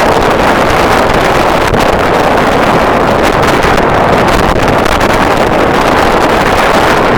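Strong wind buffeting the microphone: a loud, steady rushing roar with no distinct tones.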